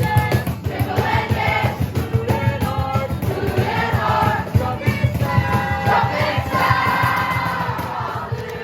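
A large group of people singing a worship song together in unison, many voices at once.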